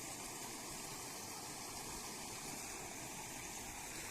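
Heavy rain falling: a steady, even hiss without breaks.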